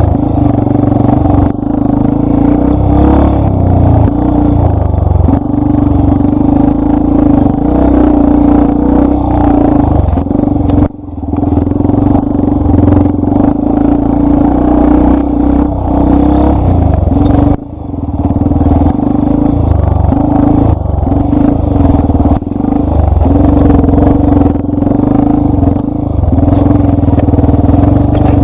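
Yamaha Lander 250's single-cylinder four-stroke engine running steadily under load as the trail bike is ridden, with two brief drops where the throttle comes off, about a third of the way in and again a little past halfway.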